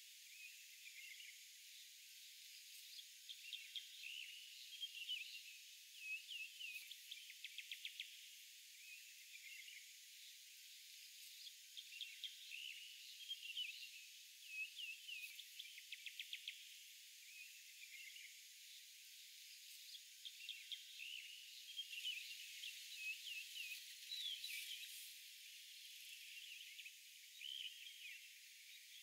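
Faint birds chirping and calling over a steady background hiss, with short repeated chirps and quick trills throughout.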